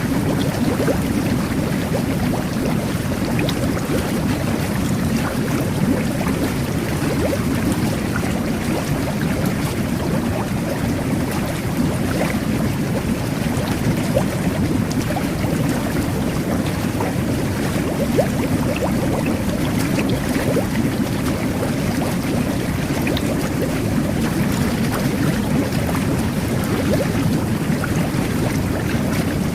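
Jet bath running: water churning and bubbling from the air jets, a steady low rush with small pops and splashes scattered through it.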